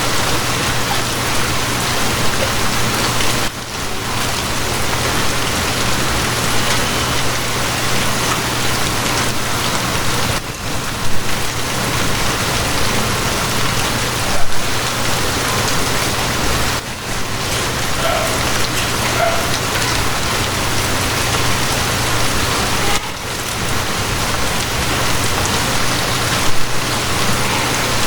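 Steady rain falling, an even hiss of drops with a low steady hum underneath. The level dips briefly every several seconds, and there are a couple of louder splashes midway.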